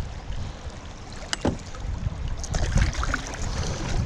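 Kayak paddling on a creek: paddle strokes and water splashing and rushing around the hull, with a low rumble underneath and one sharp knock a little over a second in.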